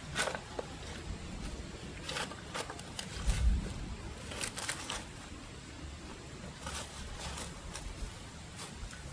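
Irregular scrapes and knocks, seven or eight of them, with a heavier low thud about three and a half seconds in.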